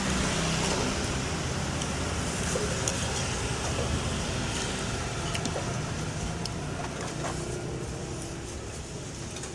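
A motor vehicle's engine running close by over road-traffic noise, with a low hum that slowly fades.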